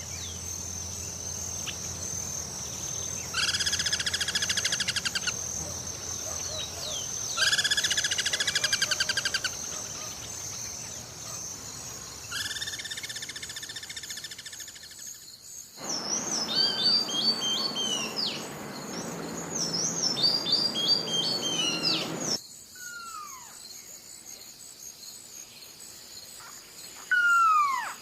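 Birds calling one after another. First come three buzzy, rasping calls of about two seconds each. Then, over a hiss, a phrase of quick repeated high notes, followed near the end by two descending whistles. A steady high-pitched tone runs under the first part.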